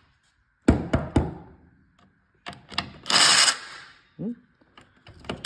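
Hand tools knocking during work on the go-kart: three sharp knocks close together about a second in, then a short rushing noise about three seconds in.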